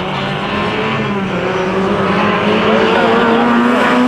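Drift car's engine held at high revs through a slide, its pitch steady and then rising slightly near the end, over a hiss of tyre noise.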